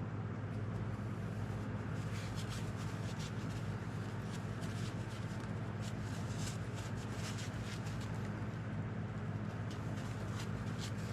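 A steady low machine hum, like an engine running at idle, runs throughout. Many light clicks and taps on top come from small metal hydraulic fittings and O-rings being handled.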